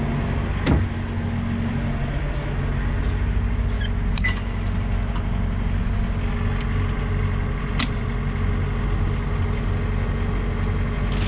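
Farm machinery running steadily with an engine hum, with a sharp knock about three-quarters of a second in and a few metallic clicks later on.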